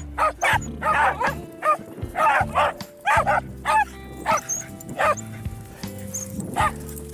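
Dogs barking and yipping in quick repeated bursts as they play and chase, over background music with held low notes.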